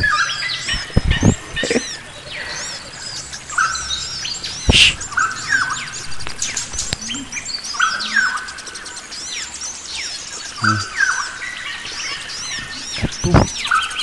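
Several wild forest birds singing and calling together: a steady tangle of high chirps and arched whistled notes, with a lower call phrase repeating every two to three seconds. A few short dull knocks sound about a second in, near five seconds, and near the end.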